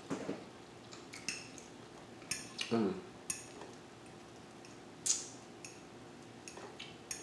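Utensils clinking and scraping on a plate of food, a scattered handful of sharp clicks, the loudest about five seconds in.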